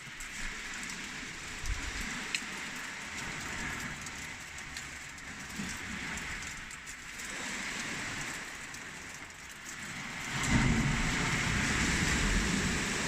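Strong wind buffeting the microphone: a rough, rumbling rush that gusts louder about ten seconds in.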